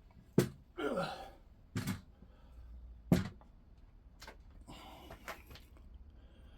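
A partly rebuilt Reliant 850 engine being turned over on the bench: three sharp knocks of metal set down and shifted, the loudest about three seconds in, with a short grunt about a second in and fainter scraping near the end.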